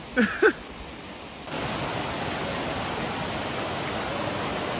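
Steady rushing of a large waterfall in high flow, coming in sharply and louder about one and a half seconds in. Two short voice sounds right at the start.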